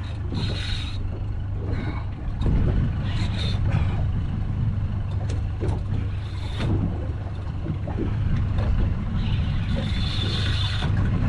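Boat engine idling with a steady low hum, with short bursts of hiss a few times over it.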